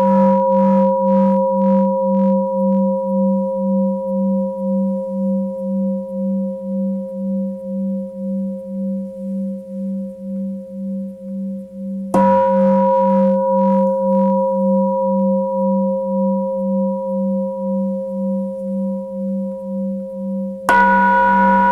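Tibetan singing bowl struck and left ringing, its low hum wavering in a steady pulse about twice a second as it slowly fades. It is struck again about twelve seconds in and once more near the end.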